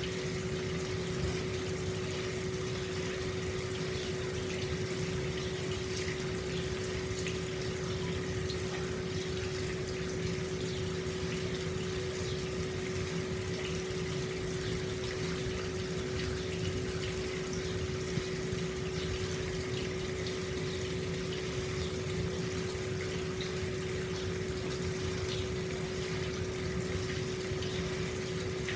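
Hot spring water flowing steadily out into an open-air stone bath, an even rushing and splashing, with a steady hum under it.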